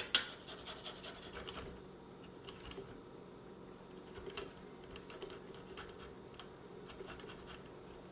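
Garlic being worked by hand on a kitchen surface: a quick run of light clicks and scrapes for about the first second and a half, then only occasional soft ticks.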